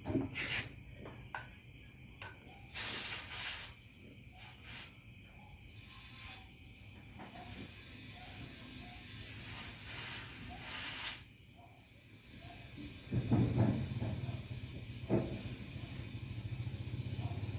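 Air hissing in two bursts, one of about a second and a longer one of about two seconds, during a tubeless tyre puncture repair, with crickets chirping steadily in the background. A low hum comes in near the end.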